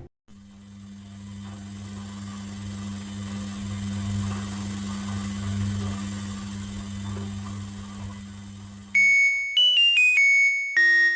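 A steady low electrical hum, like a household appliance running. About nine seconds in it stops and an electronic chime tune of quick, bright notes starts, like a doorbell or appliance melody.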